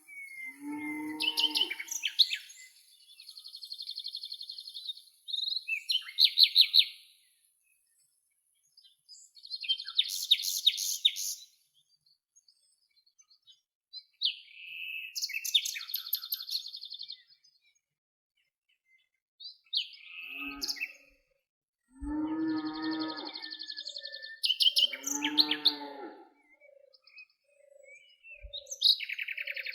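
Several wild birds calling in turn: high, rapid buzzy trills and chirps, and a few lower, drawn-out calls about a second long, with short quiet gaps between the calls.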